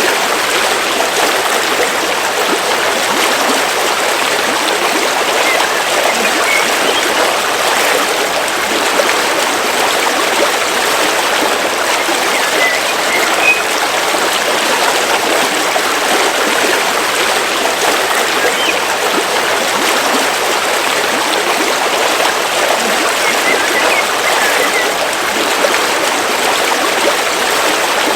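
River water flowing steadily over rocks, a continuous, even rushing and babbling.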